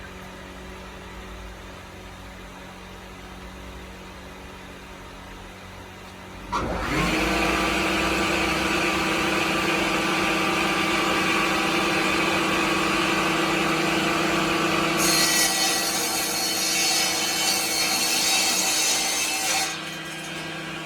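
A power tool's motor spins up suddenly, rising in pitch, and then runs at a steady loud whine. Near the end a harsh, hissing cutting noise joins it for about five seconds before dropping away, over a low steady hum.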